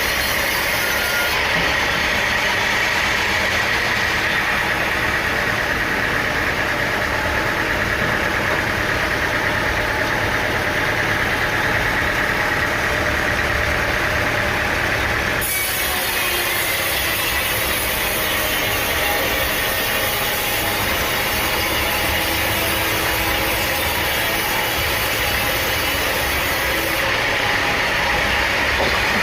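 Sawmill machinery running steadily: an engine note under a steady high whine. The sound changes abruptly about halfway through, as at a cut.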